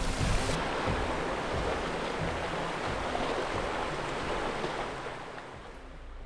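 Sea waves washing on the shore, a steady rushing surf that fades away near the end.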